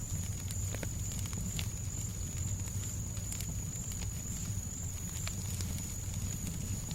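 Fireplace crackling, with scattered sharp pops and clicks over a steady low hush of background noise. A thin, steady high whine runs through it.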